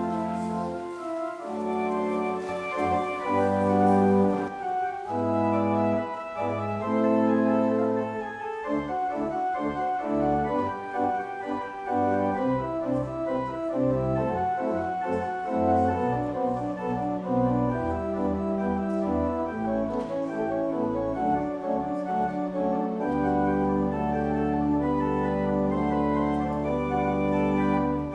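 Church organ playing a postlude: sustained chords over a moving bass line, ending on a long held low chord near the end.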